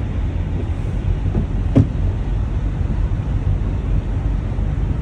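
Steady low rumble of a car driving on the highway, heard from inside the cabin, with a single sharp knock a little under two seconds in.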